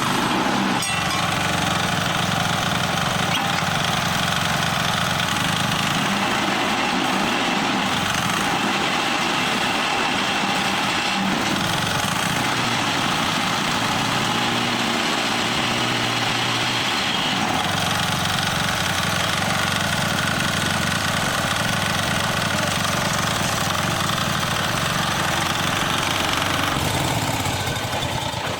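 Small diesel engine running steadily, powering a mobile concrete hollow block moulding machine.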